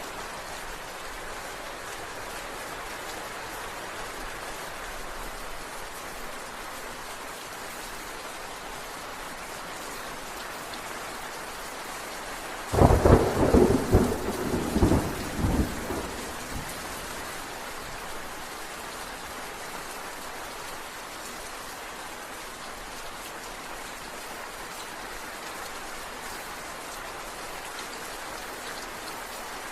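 Steady rain falling, broken about halfway through by a sudden, loud clap of thunder in several sharp cracks that die away over about three seconds.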